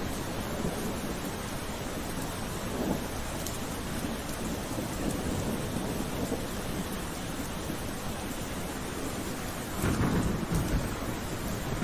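Steady rain falling, with a low rumble underneath that swells louder about ten seconds in.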